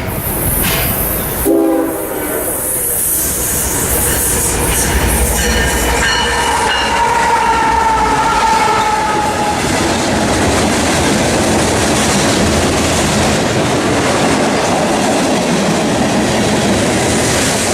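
A train passes close by with its diesel locomotive horn sounding. A short blast comes about two seconds in, and a longer one a few seconds later whose pitch slowly falls. Steady rumble and rail noise from the passing cars carries on underneath.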